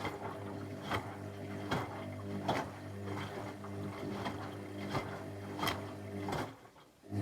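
Techwood WB 91042I washing machine turning its drum in the wash: a steady motor hum with a knock about every three-quarters of a second. The motor stops briefly near the end.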